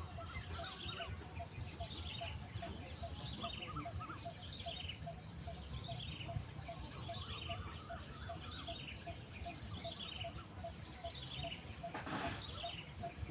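Bird calling over and over, a high falling note more than once a second, with a steady train of short low notes about three a second beneath it. A brief noisy burst comes near the end.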